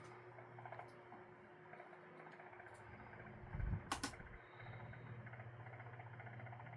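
Repaired Hanil electric fan running with a steady, faint motor hum and a light rhythmic rattle, with a sharp click about four seconds in.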